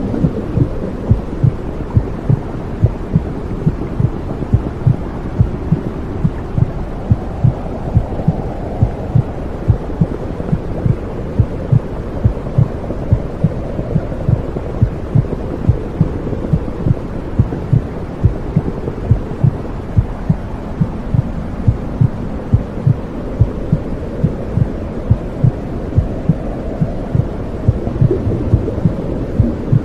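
Womb-sound white noise: a dense, muffled low whooshing rumble with a steady heartbeat thumping through it at about two beats a second.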